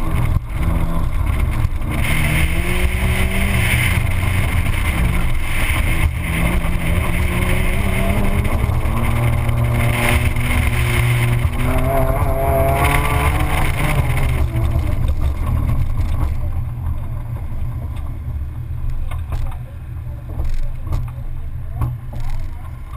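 Car engine driven hard through an autocross course, its pitch climbing and falling repeatedly as the throttle is worked between cones. About sixteen seconds in it drops away sharply and the car rolls on much more quietly.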